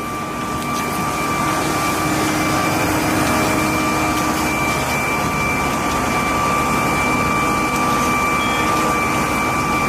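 Fire engine's pump running steadily under load, a loud, even rushing noise with a steady high whine, growing slightly louder over the first few seconds.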